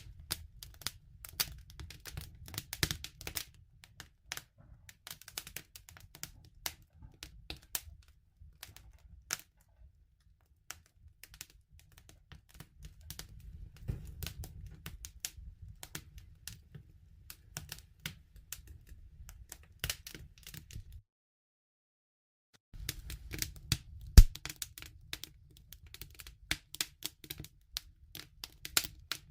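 Wood fire crackling: a dense run of irregular small pops and snaps over a low rumble of burning. The sound cuts out completely for about two seconds past the middle, and soon after it returns comes one sharp, loud pop.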